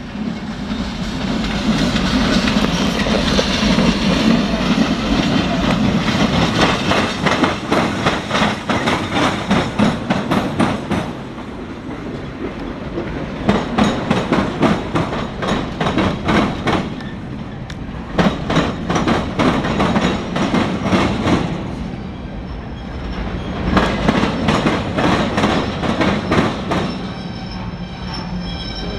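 CSX local freight train shoving backwards at low speed: car wheels click-clack over the rail joints in repeated groups over a steady rumble, with some wheel squeal.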